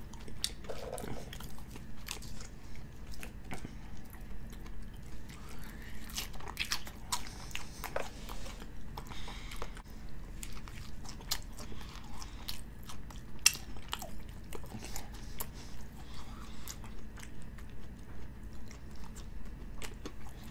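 A person chewing a bacon steak burger close to the microphone: a steady chewing rhythm of about two chews a second, with crunchy bites and one sharper crunch about halfway through.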